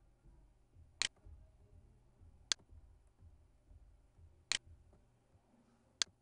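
Computer mouse clicking four times, about one and a half seconds apart, over a faint low hum.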